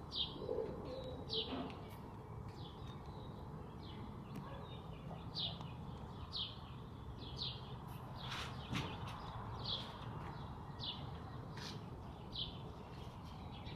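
A small bird calling with repeated short, high chirps that fall in pitch, one every one to two seconds, over faint steady outdoor background noise.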